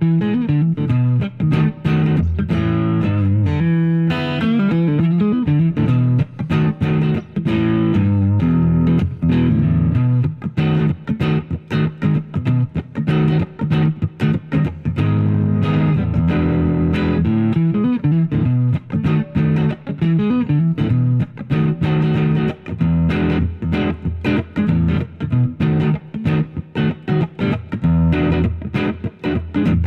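Harley Benton JA-60 Jazzmaster-style electric guitar on its neck single-coil pickup, played through a clone of the Catalinbread SFT pedal for amp-like overdrive. It is a continuous run of quickly picked notes and chords.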